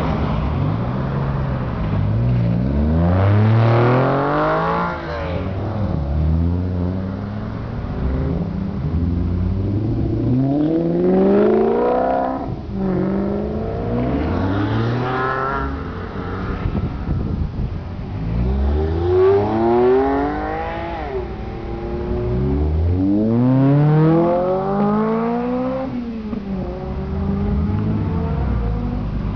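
Sports car engines accelerating hard one after another, each climbing in pitch and dropping at the gear changes, about five bursts of acceleration in turn.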